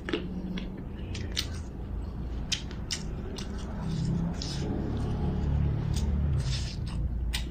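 Eating at a meal table: scattered sharp clicks of chopsticks and utensils against bowls, with some chewing, over a low steady background rumble.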